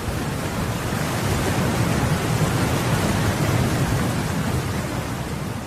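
Steady rushing noise, even and dense with no separate hits or drops, easing off slightly near the end.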